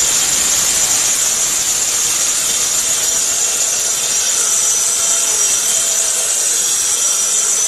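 High-speed electric grinder running flat out, milling dry gram into besan powder: a loud, steady whir with a high whine.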